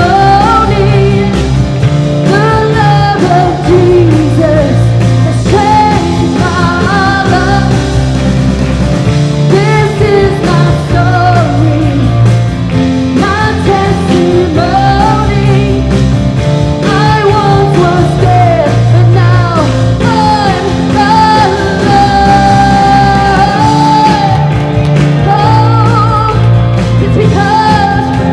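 Live church worship band playing a rock-style song with voices singing the melody over a bass line.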